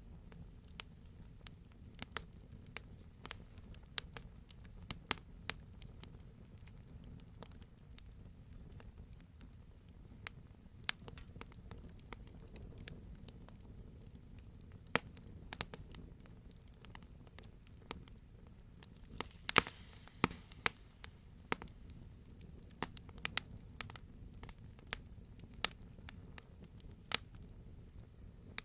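Wood campfire burning with a low rumble and irregular sharp crackles and pops, a cluster of louder pops about two-thirds of the way through.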